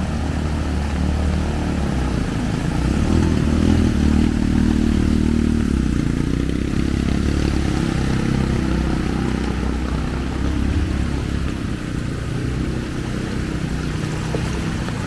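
A motor vehicle's engine running close by, getting louder about three to four seconds in and then easing off, over a steady rushing noise.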